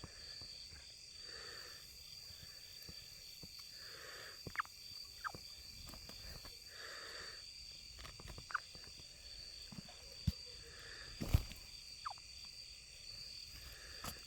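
Steady chorus of crickets and other insects trilling after the rain, with a few short falling chirps scattered through it and a single sharp knock about eleven seconds in.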